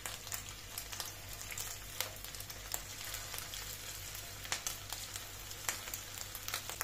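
Raw köfte meat patties shallow-frying in hot vegetable oil over medium heat: a steady sizzle with frequent small crackles of spitting oil as more patties go into the pan.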